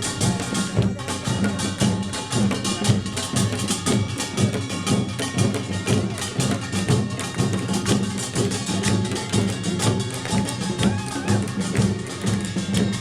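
Korean pungmul percussion band playing a fast, dense rhythm: small hand gongs (kkwaenggwari) clanging over hourglass and barrel drums, without a break.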